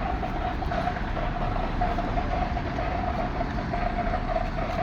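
Steady running motor noise with a constant mid-pitched whine.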